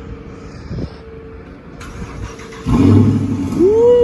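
A car engine cranking and firing up about three-quarters of a second before the end, then rising in pitch as it revs and settling into a steady high idle. The engine starts after its faulty starter has been replaced.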